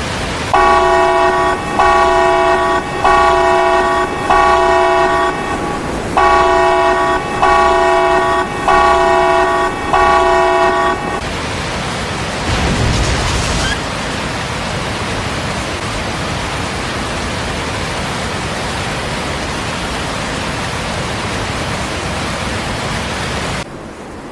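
A multi-tone horn sounds eight blasts of about a second each, in two sets of four, over a steady rushing noise. The blasts stop about eleven seconds in, and the rushing noise goes on alone, with a brief low rumble around thirteen seconds.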